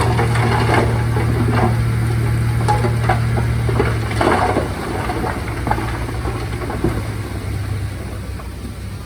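Heavy diesel engine running steadily, with scattered metallic clanks and rattles over it; the sound eases somewhat in the second half.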